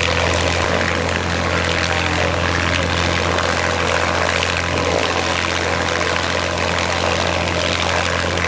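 Propeller airplane engine running steadily in flight: a loud, even drone with a noisy wash over it.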